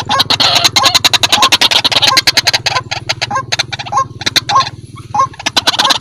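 White-breasted waterhen calling insistently: a rapid, harsh run of notes with a hooked call note repeating about every half second, briefly thinning out near the end.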